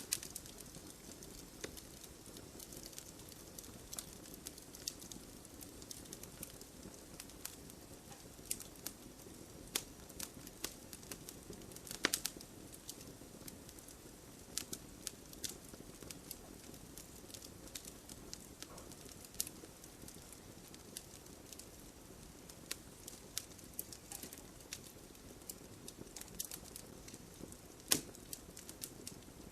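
Wood fire crackling: a steady low rush of flames with irregular sharp pops and snaps of burning wood, one louder pop about twelve seconds in.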